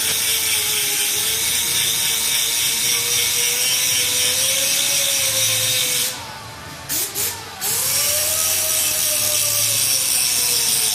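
Power grinder grinding metal with a steady high hiss, its motor pitch wavering under load. About six seconds in it stops briefly, then spins back up with a rising whine and carries on grinding.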